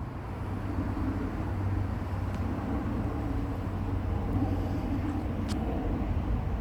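Steady low outdoor rumble of background noise, with a couple of faint ticks.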